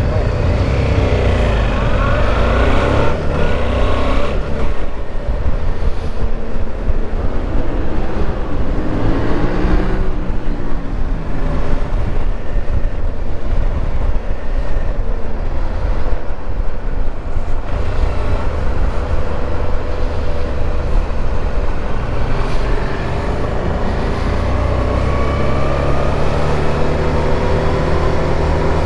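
Suzuki V-Strom 650's V-twin engine revving up and down again and again as the motorcycle weaves through a cone slalom, then climbing steadily in pitch near the end. Heavy wind rumble on the microphone underneath.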